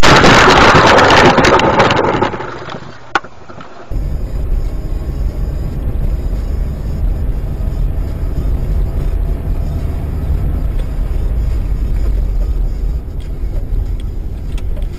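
A loud rushing noise that fades out over the first two or three seconds, a single sharp click, then from about four seconds in the steady low rumble of a car driving along.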